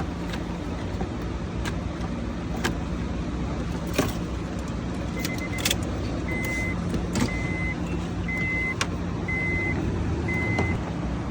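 A 2005 Honda Pilot's electronic warning chime beeps about once a second, in short, even, high-pitched tones that start about halfway through, over a steady low hum. Scattered sharp clicks and taps of plastic trim and tools being handled on the steering column are heard throughout.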